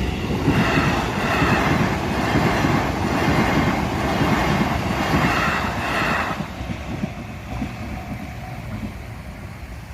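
An electric commuter train passing over a level crossing, its wheels clattering in a repeating rhythm. The sound dies away after about six seconds as the train moves off.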